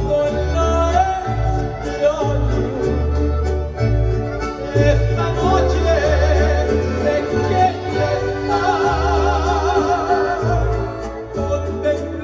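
Mariachi music: a steady bass line pulsing on the beat under a melody with strong vibrato.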